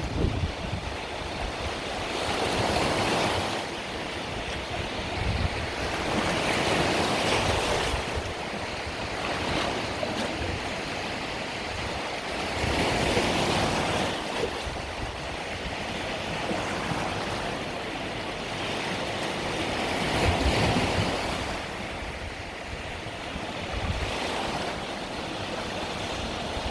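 Mediterranean surf: small waves breaking and washing up the shore in swells every few seconds, with some wind on the microphone.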